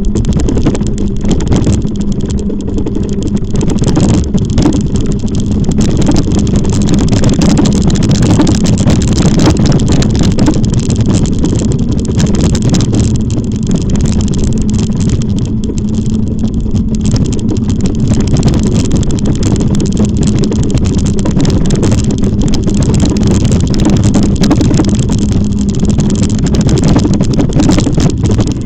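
Steady riding noise from an e-bike on the move: a continuous rumble with a steady hum, held at an even loudness.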